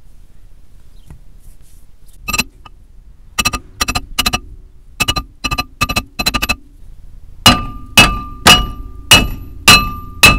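Hammer blows knocking the old brake disc off a Suzuki Wagon R's hub, the steel disc ringing after each strike. Scattered lighter blows come first, then about two heavy, evenly spaced blows a second from about seven seconds in.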